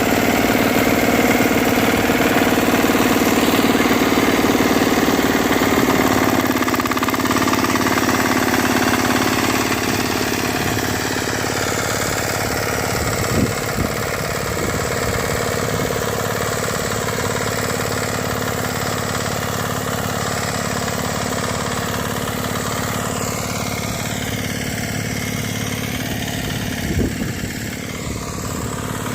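5-horsepower engine of a Bharat nano tractor (mini cultivator) running steadily, a little quieter after about six seconds, with a couple of brief clunks partway through and near the end.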